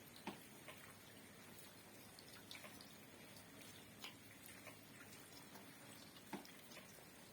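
Rain at night: faint steady patter of light rain with separate drops landing every second or so, about six clear drips in all.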